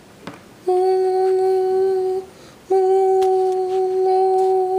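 A person humming two long, steady notes at the same pitch, separated by a short breath; the second note dips slightly in pitch as it trails off.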